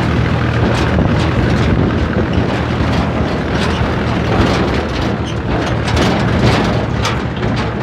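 Tractor engine running loudly and steadily, with frequent short knocks and rattles over it.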